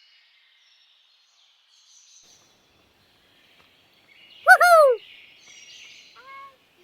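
Faint birdsong in the background, with a loud, short pitched call about four and a half seconds in that rises and then falls, and a quieter rising call near the end.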